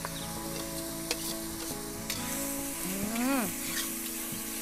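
Spice mix of chopped shallots, garlic and chilies sizzling in hot oil in an iron wok, stirred with a metal spatula. A short call rising and falling in pitch is heard about three seconds in.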